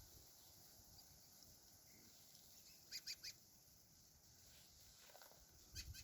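Quiet outdoor ambience with a bird's short high chirps: three in quick succession about three seconds in, and a couple more near the end.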